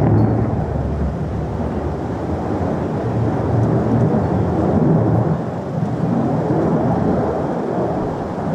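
Jet noise from a Lockheed Martin F-35A in flight, the steady low rumble of its Pratt & Whitney F135 afterburning turbofan during a display pass.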